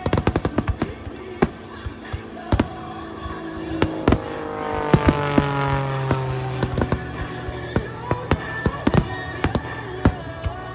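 Fireworks going off: a dense run of sharp crackling bangs at first, then scattered booms and cracks. Music plays underneath, with a cluster of falling tones about halfway through.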